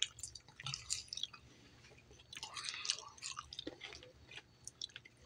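Faint, close-up chewing of coleslaw, with soft wet mouth sounds and scattered short clicks.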